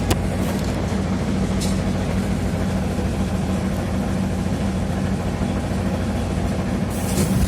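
TrolZa-5275.05 Optima trolleybus running, heard from inside: a steady drone from its DK-213A traction motor and Ishimbay rear axle, with a constant hum under it. A few clicks come at the start, and a hiss builds near the end.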